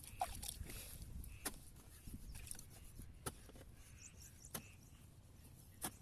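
Faint, sharp knocks or taps, five of them spaced about a second and a half apart, over a low background rumble.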